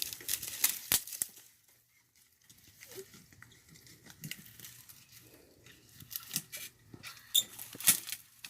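Dry leaves, twigs and brush crackling and snapping, in a burst during the first second or so and again from about six to eight seconds in.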